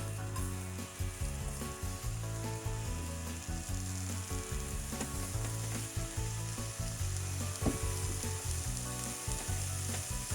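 Chopped daikon leaves and peel sizzling in sesame oil in a frying pan on medium-low heat, a steady frying hiss. Scattered clicks and scrapes come from the vegetables being stirred in the pan.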